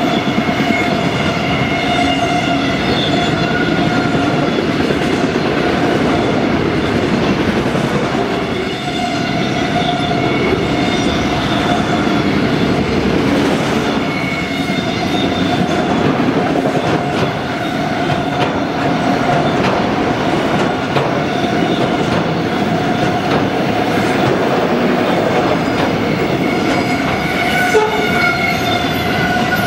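Mixed freight train's autoracks and boxcars rolling past: a steady rumble of steel wheels on rail, with thin high squealing tones from the wheels that fade in and out.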